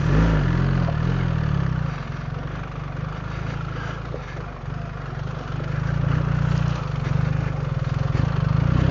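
BMW R 1300 GS Adventure's boxer-twin engine pulling the bike up a steep off-road climb. The engine note is strong at first, eases off about two seconds in, and picks up again with the throttle from about six seconds.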